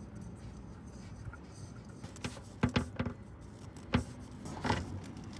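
A handful of sharp clicks and knocks, about five over two and a half seconds, from hands working on the motorcycle's engine while the new oil filter is fitted hand tight.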